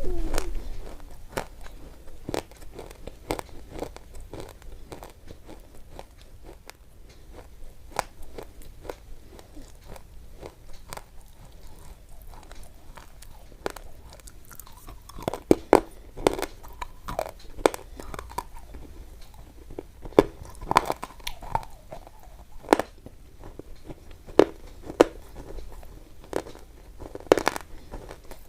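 Irregular crisp crunches and clicks, sparse at first and louder and more frequent from about halfway through.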